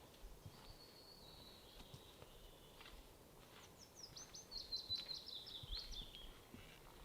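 A songbird singing faintly in the forest: a thin, high held note that slides slightly down, then a quick run of notes falling in pitch over a few seconds. A few faint clicks sound alongside.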